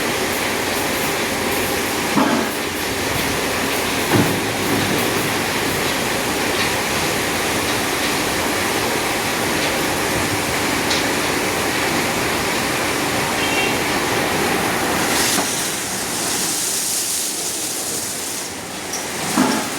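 Automatic car wash machine running: a steady mechanical rumble with water spray, two short knocks a couple of seconds apart, and a brighter spray hiss in the last few seconds.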